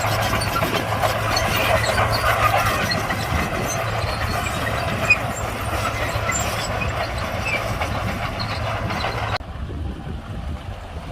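Komatsu D41P crawler bulldozer working: its diesel engine runs steadily under load with clattering tracks, and a single sharp clank about halfway. Near the end the sound drops abruptly to a quieter, duller engine rumble.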